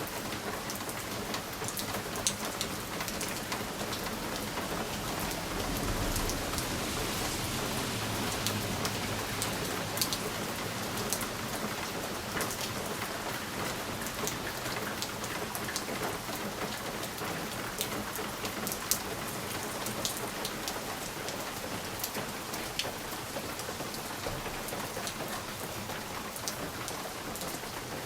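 Steady rain on a window pane, with single drops ticking sharply against the glass throughout. A low rumble swells and fades about six to nine seconds in.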